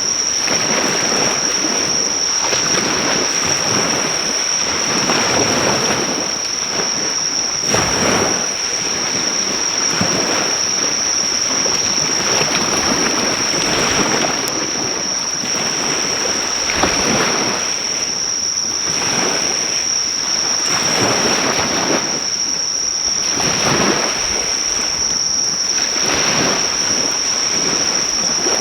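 Sea waves washing onto the shore in repeated surges every few seconds, under a continuous high-pitched insect trill.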